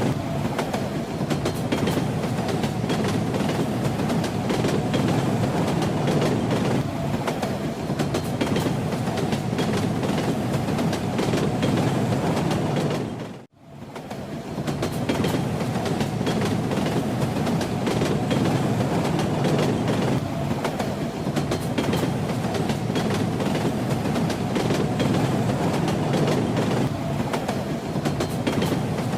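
Moving train running steadily, a dense rumble with the clicking knock of wheels over rail joints. About halfway through the sound fades briefly to near silence, then swells back.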